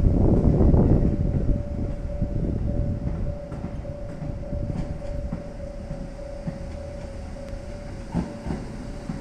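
KiHa 75 diesel railcar rolling along the tracks below, with a rumble of wheels on rail, a steady whine, and a few light clicks over rail joints. A louder rush at the very start dies down after about a second.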